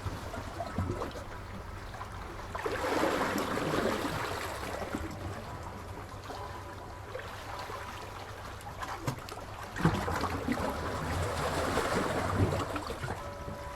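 Sea waves washing in, two swells of surging water about seven seconds apart, with gentle sloshing between them.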